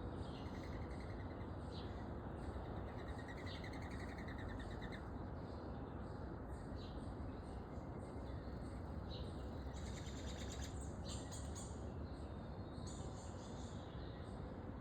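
Small backyard songbirds chirping and calling: short high chirps scattered throughout, a couple of buzzy trills in the first few seconds, and a denser flurry of calls about ten seconds in, over a steady low background noise.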